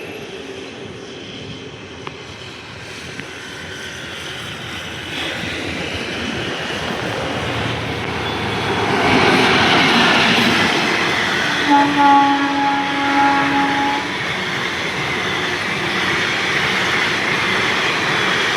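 A train passing, its running noise growing louder through the first half; a locomotive horn sounds for about two seconds just past the middle.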